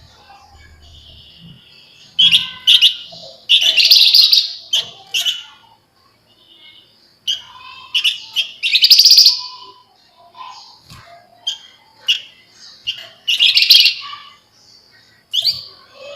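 Javan fulvetta (flamboyan) singing in bursts of fast, dense chattering trills, with short pauses between the phrases.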